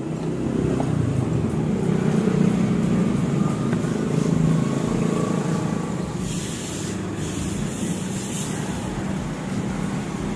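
A small engine running steadily, loudest over the first few seconds; from about six seconds in, a hiss joins it.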